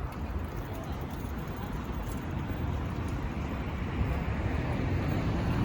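Steady outdoor city rumble with no distinct events, growing slightly louder towards the end.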